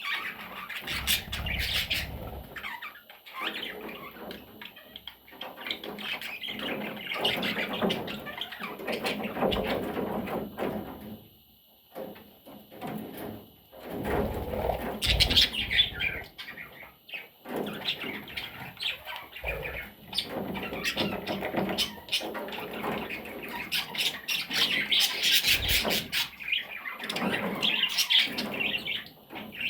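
Pet budgerigar chattering and squawking in a long run of warbles, chirps and harsh calls, with a few short pauses.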